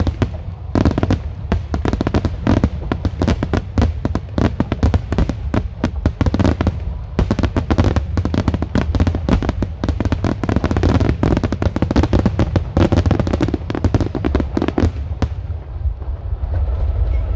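Wide starmine fireworks barrage: a dense, rapid run of shell bursts and crackles, thinning out to scattered bangs near the end.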